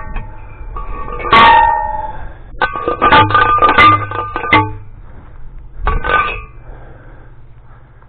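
Steel T-post fencing gear clanking metal on metal: one loud clang, then a quick run of irregular clanks about two seconds later and one more near the end, each strike ringing briefly with clear metallic tones.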